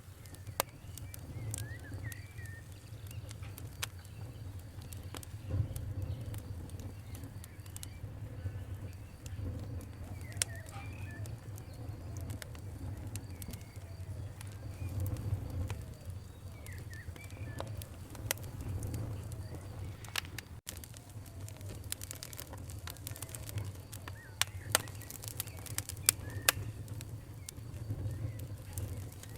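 Campfire crackling, with sharp pops scattered throughout over a steady low rumble and a quick run of louder pops near the end. A few short bird chirps come in now and then.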